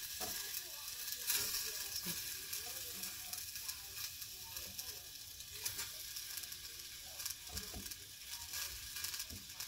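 Sliced strawberries heating in a stainless-steel saucepan over a low gas flame, giving a soft steady sizzle with a few scattered crackles.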